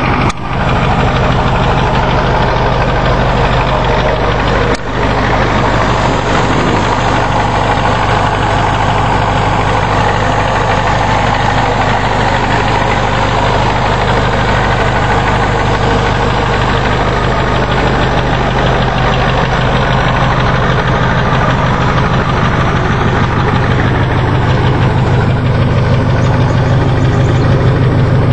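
1991 Ford F-250's 7.3 L IDI V8 diesel idling steadily through a straight-piped exhaust, with the knocking diesel clatter of an indirect-injection engine shortly after a cold start. The sound briefly drops out twice, about half a second and five seconds in.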